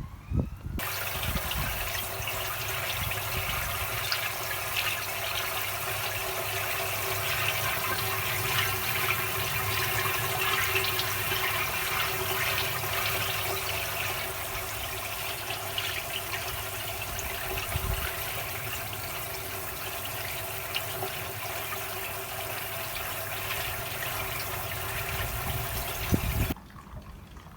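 Water running and splashing steadily, cutting off abruptly near the end.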